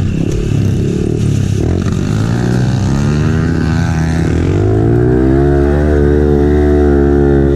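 Pit bike engine revving as it is ridden, its pitch wavering for the first few seconds, then climbing about halfway through and held high under throttle.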